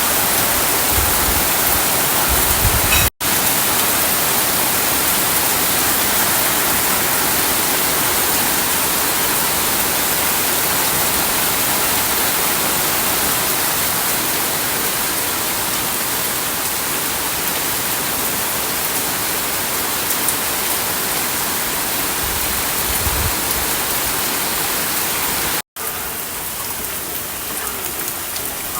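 Heavy rain pouring steadily, with two very brief dropouts where the sound cuts out for an instant.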